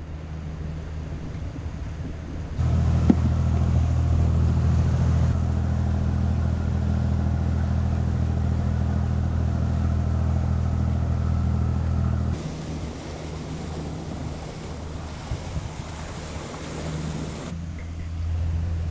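A trawler's engine running steadily while under way: a low drone with a hiss of wind and water over it. It gets louder suddenly about two and a half seconds in and drops back about twelve seconds in.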